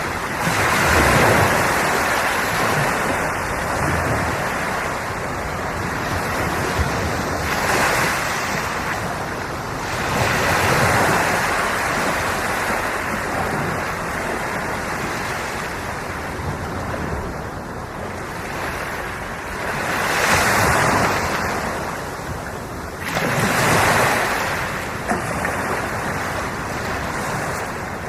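Sea waves breaking and washing on the shore: a steady surf hiss that swells with each incoming wave, about five louder surges.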